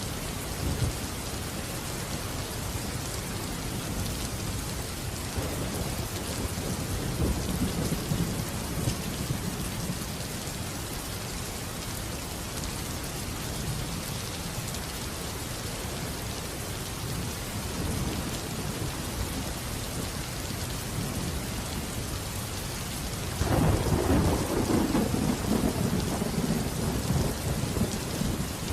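Steady rain falling, with rolling thunder: low rumbles build and fade several seconds in, and near the end a louder thunderclap breaks in suddenly and rumbles away over a few seconds.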